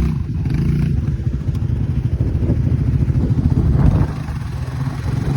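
Off-road vehicle engine running hard while driving through a mud hole, its low exhaust note fluttering unevenly, loudest about four seconds in.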